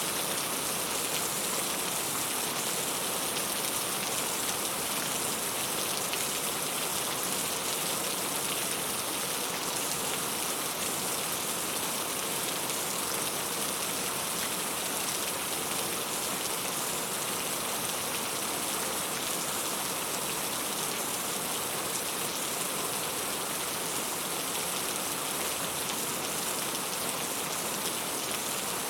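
Steady rainfall, raindrops pattering on a surface in an even hiss with no change.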